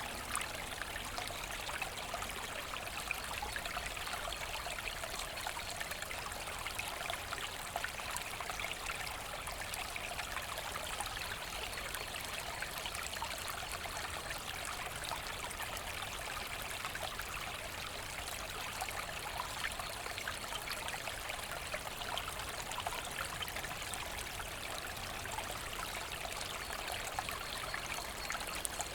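Forest brook burbling and trickling over stones: a steady, even rush of running water with fine splashing detail and no pauses.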